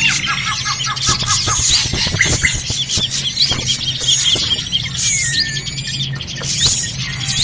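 Noisy drongo lure call recording: a dense, busy jumble of overlapping chirps, whistles and short gliding notes, played over a steady low hum.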